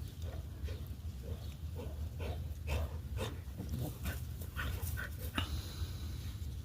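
Border collie making a run of short, quick breathy or vocal sounds, two or three a second, that stop a little after five seconds in, over a steady low rumble.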